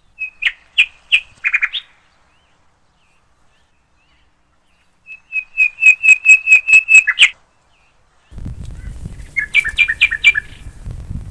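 Small bird chirping in quick runs of sharp, repeated high notes: a short run at the start, then about ten faster notes around the middle, with dead silence between them. Near the end, a low outdoor background rumble comes in under another brief burst of chirps.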